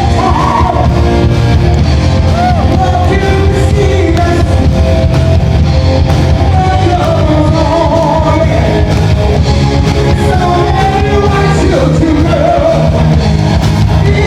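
Live rock band playing loudly: a singer over electric guitar, bass and drums.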